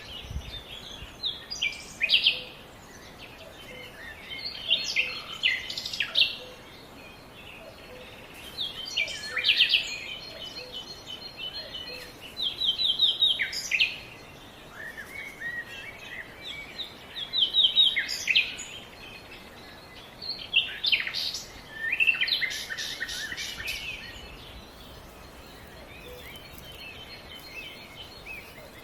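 Songbirds singing: short chirping phrases and rapid trills come every few seconds over a faint steady outdoor background.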